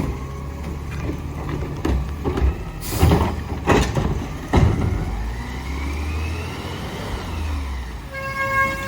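Garbage truck with its engine running steadily, three loud bangs just before midway, then a whine that rises and falls in pitch. A steady high tone starts near the end.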